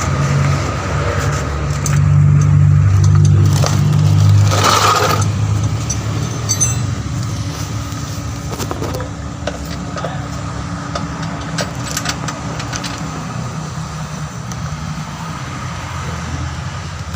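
A motor vehicle engine running steadily with a low hum, swelling for a few seconds about two seconds in. A short noisy burst comes about five seconds in, followed by scattered clicks and knocks.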